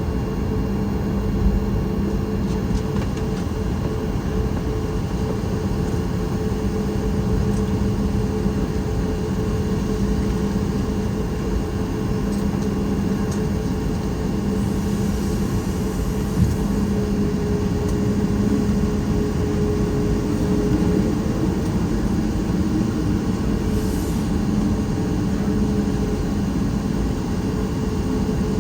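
Boeing 737 MAX 8 cabin noise: the steady hum of the engines and air systems, with two light thumps, one about a second and a half in and one about sixteen seconds in.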